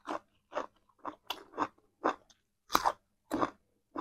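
Chewing raw cucumber slices: crisp, uneven crunches, about two a second.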